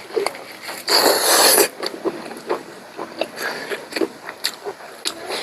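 Close-up eating sounds: chewing and mouth clicks from someone eating pork rib curry, with one loud rushing noise lasting under a second about a second in.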